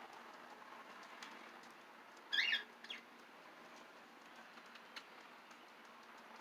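A small pet parrot gives one short, loud chirping call about two and a half seconds in, then a fainter brief chirp, over a faint steady background hiss.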